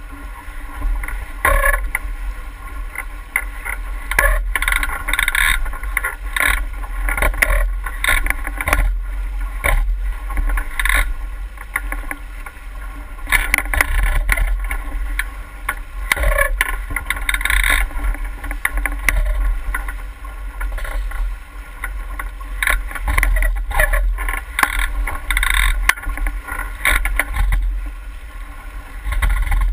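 A boat moving through water: irregular splashes and hull slaps over a steady low rumble.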